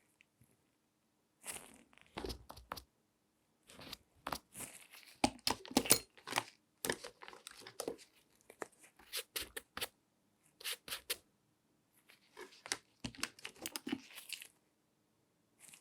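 Close-miked handling sounds: irregular bursts of crinkling, scratching and sharp clicks with short silences between, densest and loudest a few seconds in.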